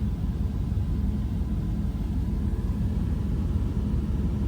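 D&S 5000 in-bay automatic car wash running its tri-gloss foam pass, heard from inside the truck cab as a steady low rumble.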